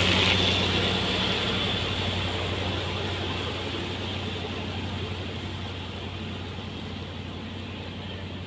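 Heavy construction-machine engine running steadily with a low hum, slowly getting quieter.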